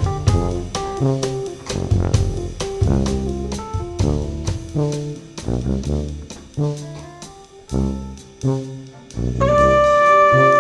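Jazz music from a small brass-led ensemble with drums and keyboards: the drums keep a steady beat under low bass notes and short melodic figures. About nine seconds in, the horns come in together on a loud held chord.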